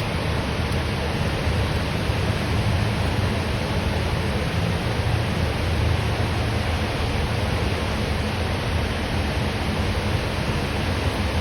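Rain falling in a steady, unbroken hiss, with a low rumble of road traffic underneath.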